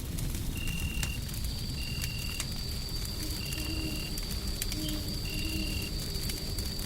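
Layered ambience: a wood fire crackling with scattered sharp pops over a steady low rumbling hiss. A short high chirp repeats about once a second, and a thin steady high tone joins about a second in.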